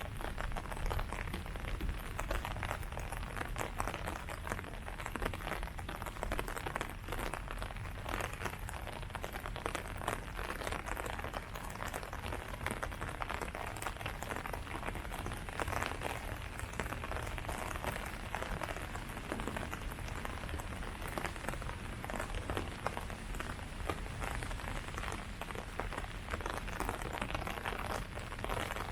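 Steady rain falling on leaves, a dense patter of drops with no let-up.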